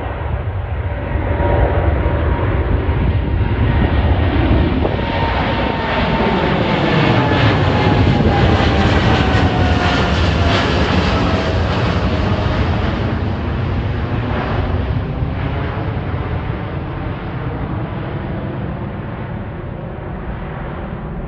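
Boeing 787-9 twin-engine jet airliner at takeoff power passing by. Its engine rumble builds over the first couple of seconds, and whining fan tones slide down in pitch as it goes past. The sound then slowly fades.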